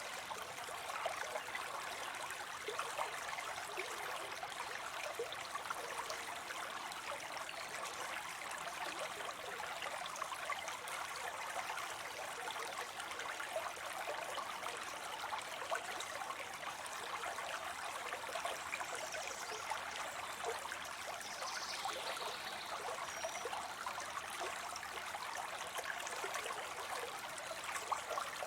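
Water spilling steadily into a pond, an even splashing trickle.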